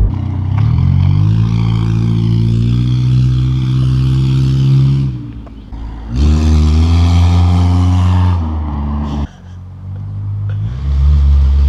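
Car engine through a makeshift semi-proper exhaust, accelerating through the gears. The note climbs for about four seconds, falls away briefly at a shift, climbs again, then drops and picks up once more near the end.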